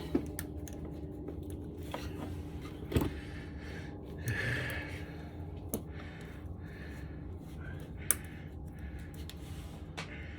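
Scattered sharp clicks and light knocks of hand tools on engine parts during intake manifold removal, a handful of separate strikes over a steady low hum, with a short breathy hiss about halfway through.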